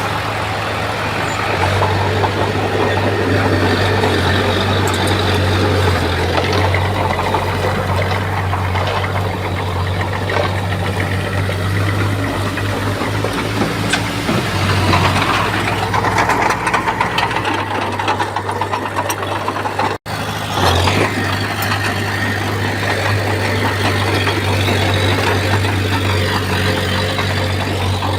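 Heavy earthmoving machine's diesel engine, most likely a bulldozer's, running steadily with a deep hum. The sound drops out for a moment about twenty seconds in.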